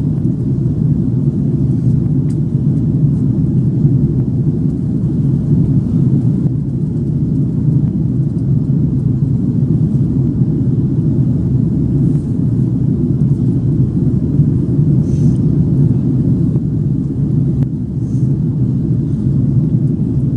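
Steady low cabin drone of an Airbus A330-300 in flight: engine and airflow noise heard from inside the passenger cabin.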